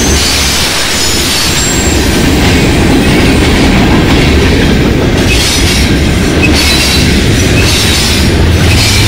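Loaded freight cars rolling past at close range: steel wheels rumbling and clacking over the rail, with a few brief high wheel squeals. Near the end the low drone of the approaching distributed-power diesel locomotive, a GE ES44AC, begins to grow.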